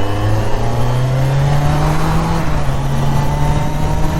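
Kawasaki Z900's 948 cc inline-four engine pulling under acceleration. Its pitch climbs over the first two seconds, then holds steady.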